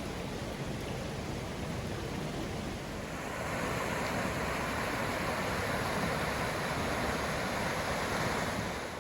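Steady rushing of flowing river water, swelling louder about three and a half seconds in.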